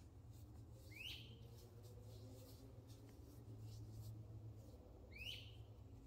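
A bird calling twice, about four seconds apart: each call a short whistled note sweeping quickly up in pitch, over a faint steady low hum.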